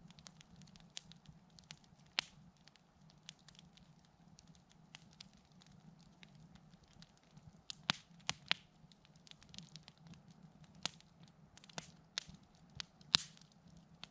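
Wood campfire crackling, with irregular sharp pops; the loudest come about two seconds in, a pair near the middle and one near the end.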